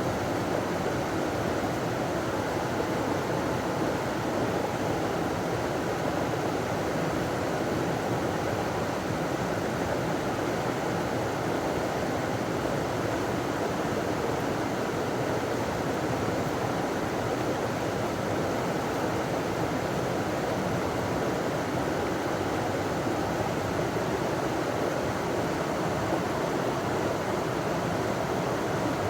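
River water running over a small waterfall: a steady, even rushing.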